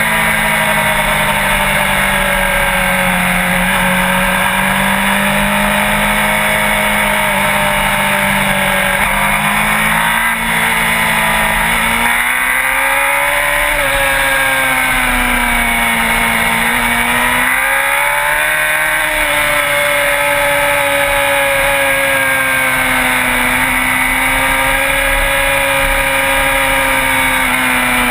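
Sport-bike engine running steadily under way; its revs drop and climb back twice in the middle, over a steady hiss of wind and road noise.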